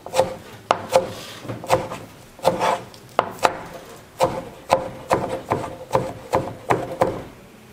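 Knife chopping vegetables on a wooden cutting board, sharp strokes at an uneven pace of about two or three a second.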